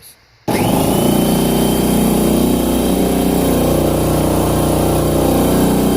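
Husky 30-gallon oil-free air compressor switching on about half a second in and running steadily as it builds tank pressure.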